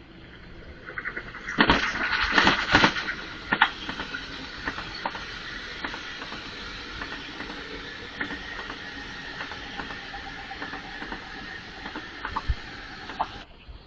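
Train passing on the rails: a steady rolling noise with wheels clicking over rail joints, loudest in a burst of clicks about two seconds in, then cutting off suddenly near the end.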